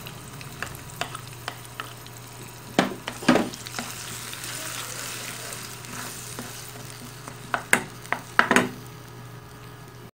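Ginger, garlic, green chilli and onion paste sizzling in hot oil in a wok while it is stirred. The spoon scrapes and clacks against the pan a few times, loudest about three seconds in and again near the end. The paste is being fried to cook out its rawness.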